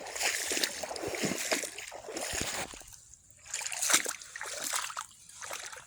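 Splashing and sloshing in shallow floodwater, in uneven bursts with short pauses, as someone wades or handles something in the water.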